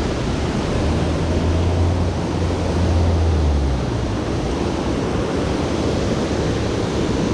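Water pouring over a dam's man-made waterfall: a loud, steady rush, with a deeper low rumble underneath for the first few seconds.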